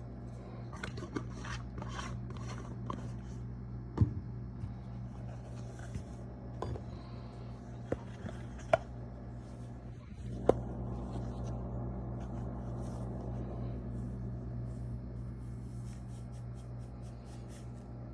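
Measuring spoons and spice containers being handled while seasonings are measured out: a few sharp taps and clicks, the loudest about four seconds in and twice more near the middle, over a steady low hum.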